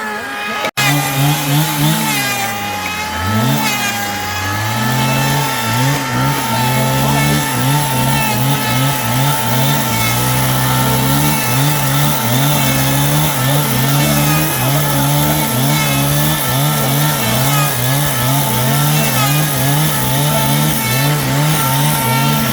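Motor of a power tool running continuously, its pitch dipping sharply once about three seconds in and then wavering up and down as the tool is loaded against the wood.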